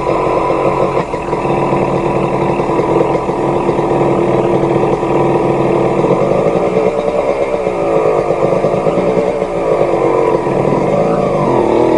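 Dirt bike engine running steadily, its pitch wavering slightly, with the clutch pulled in.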